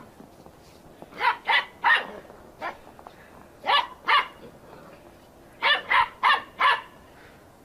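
A dog barking: about ten short barks in quick clusters of two to four, with pauses between.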